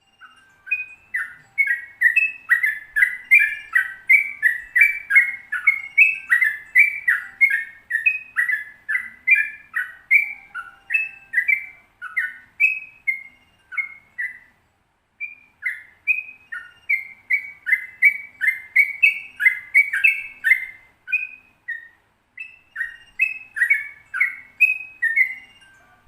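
Yellow-vented bulbul singing its long 'ropel' song: a fast, unbroken run of quick chirping notes, about two a second, pausing briefly twice.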